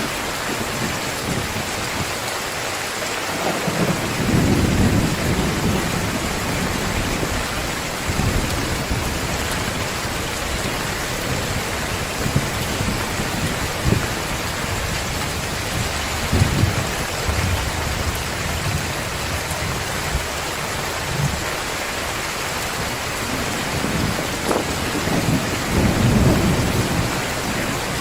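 Heavy rain pouring down steadily, with low rolls of thunder rumbling about four seconds in and again near the end.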